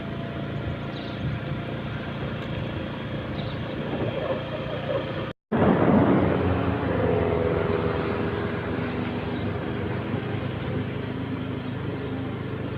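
A steady engine hum under outdoor noise, broken by a brief cut to silence about five seconds in.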